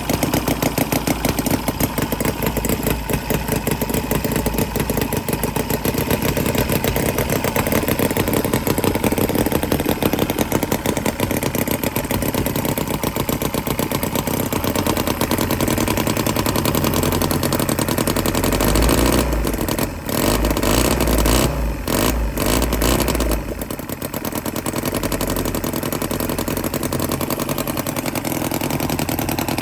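Cison V2 9cc V-twin model engine running with a fast, even beat. About two-thirds through, its sound changes for a few seconds, with several brief dips in loudness, then it settles back to a steady run.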